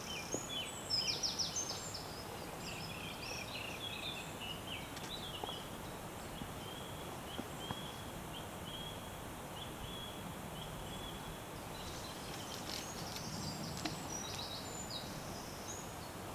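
Small birds singing: bursts of quick, high chirping phrases near the start and again near the end, with a run of short notes in between, over a steady outdoor background hiss.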